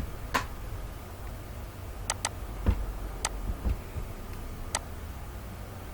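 Scattered sharp clicks of a computer mouse, one of them a quick double click, over a steady low background hum, with two dull low thumps in the middle.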